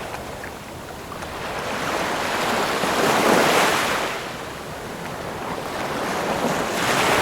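Ocean waves breaking on a shore: a steady wash of surf that swells twice, cresting about three seconds in and again near the end.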